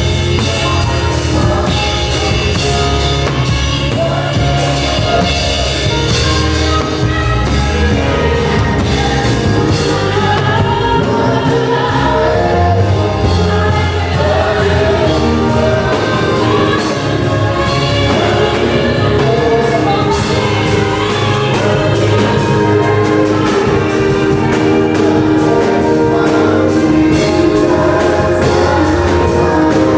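Gospel worship song: voices singing together over a band with drums and bass, playing steadily.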